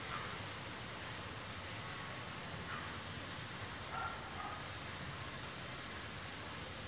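A bird repeating a short, high-pitched, falling call about once or twice a second, over a steady outdoor background hiss.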